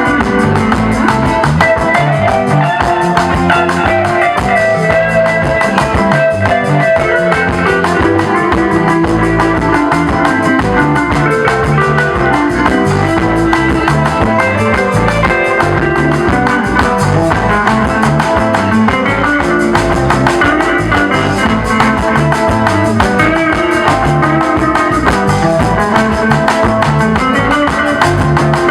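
Congolese popular music: a guitar solo over a drum kit, with a bass line stepping from note to note underneath.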